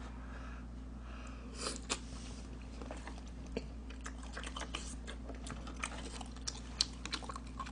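Close-up chewing and mouth sounds of someone eating chewy spicy tteokbokki: scattered soft clicks and smacks over a steady low electrical hum.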